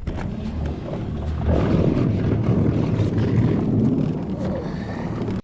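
Small boat underway: its motor running with a low hum under a wash of wind and water noise, getting louder about a second and a half in.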